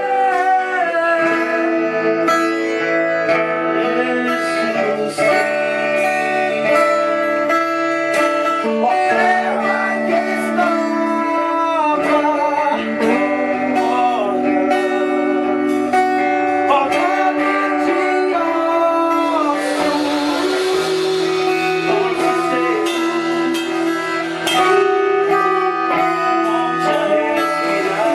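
A band playing a gospel song, with guitars prominent and singing heard at times.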